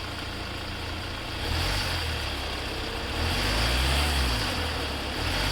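Hyundai Venue engine running with the air conditioning on, revved up twice from idle, to bring out noise from the AC compressor pulley.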